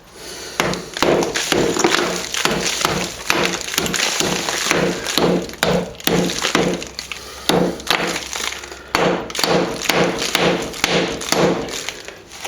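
Hammer blows on a steel chisel, about two to three a second, each with a short ring, chipping out very hard old cement plaster to open up a wall crack.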